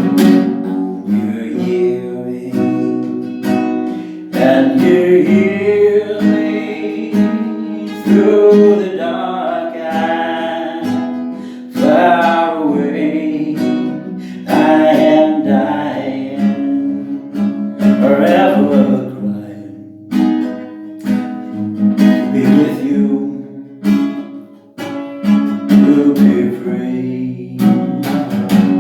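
Acoustic guitar strummed steadily under a voice singing a slow ballad in long held phrases, with short breaks between the lines.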